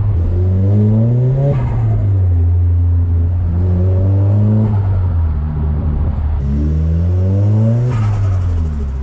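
Nissan Silvia S15's four-cylinder engine pulling under acceleration while driving. The revs rise and drop back sharply about three times as it shifts up through the gears.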